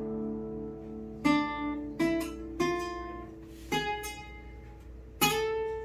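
A plucked string instrument, likely a guitar, strummed in single separate strums, about six in all, each chord left to ring and fade.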